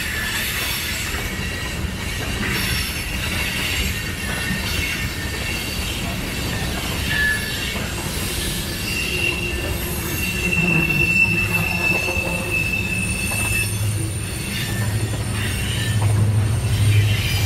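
Freight train of tank cars rolling past, its wheels squealing in thin high tones over the steady rumble of the cars, with one long squeal held for several seconds in the middle. The low rumble grows louder near the end.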